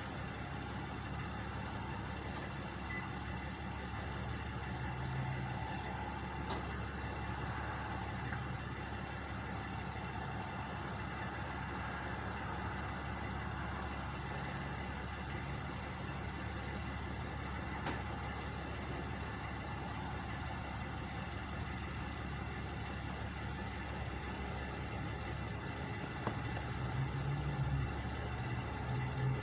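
Two parked trucks' diesel engines idling, a steady low hum that grows a little louder near the end.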